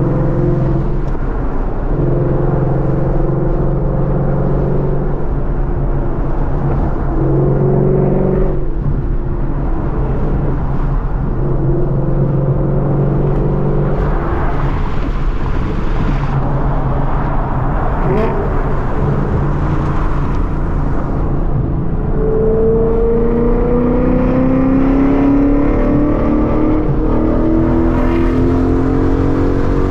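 2014 Ford Mustang GT's 5.0-litre V8 and exhaust running under way, holding a steady note at first and then rising gradually in pitch over the last third as the car accelerates.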